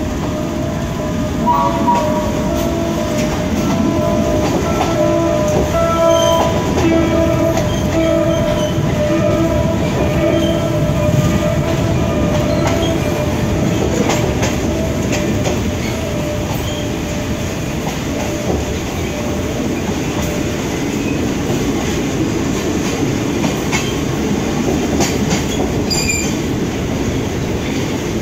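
A passenger carriage of a State Railway of Thailand ordinary train, heard from inside while it runs: a steady rumble of wheels on the track with a few faint clicks at rail joints. High ringing squeal tones come and go through the first half and fade out about halfway through.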